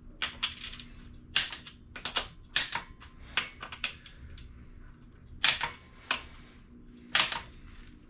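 About a dozen sharp, irregular clicks and taps from metal hand tools being worked and handled, some coming in quick pairs or short clusters.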